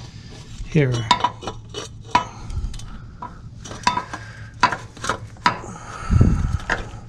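Steel exhaust pipe sections clinking and scraping against each other as they are twisted and fitted together: a string of sharp metallic clicks with brief ringing, and a dull thump about six seconds in.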